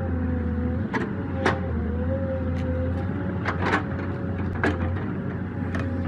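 Heavy machine running steadily, a low engine hum under a whining tone that wavers slightly, with irregular sharp cracks and knocks through it.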